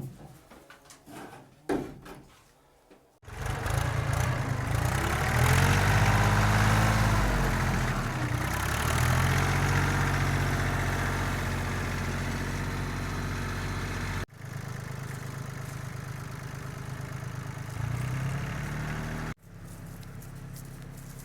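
A couple of light knocks, then the Yanmar FX20D compact tractor's diesel engine running, its pitch rising and falling as it revs before settling to a steady run. Its level drops abruptly twice in the second half.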